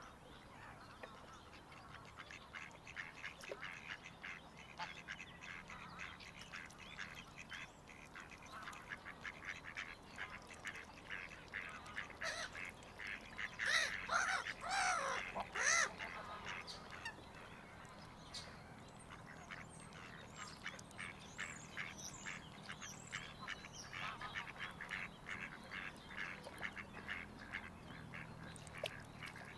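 Waterfowl calling on a lake: a steady run of many short, rapid calls, growing louder and busier for a few seconds around the middle.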